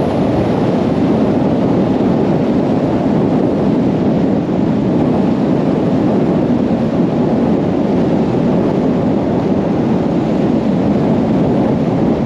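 Strong gale-force wind buffeting the microphone: a steady, dense rushing noise that does not let up.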